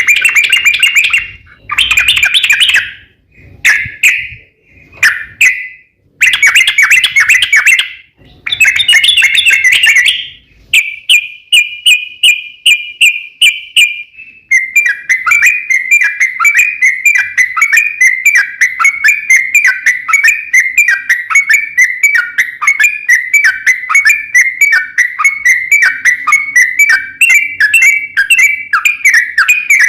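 Yellow-vented bulbul (trucukan) singing. A few loud, bubbly phrases come in the first ten seconds, then a long, fast run of repeated chirping notes follows, the 'ropel panjang' song used as a lure to get other bulbuls singing.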